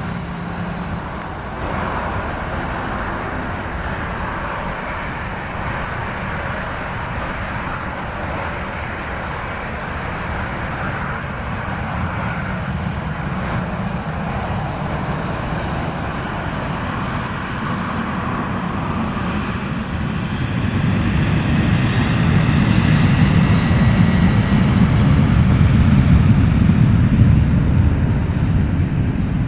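Boeing 737 jet engines spooling up with a rising whine, then a low rumble building to its loudest near the end as the jet powers up for departure, over steady background traffic noise.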